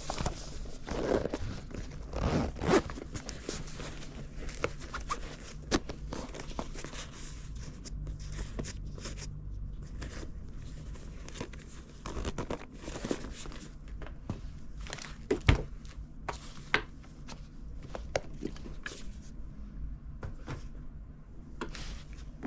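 Small handling noises: scattered clicks, taps and rustles over a low steady hum.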